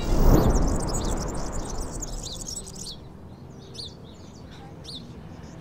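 Small birds chirping: many short, high, falling chirps repeating throughout. A loud whoosh at the start fades away over about two seconds.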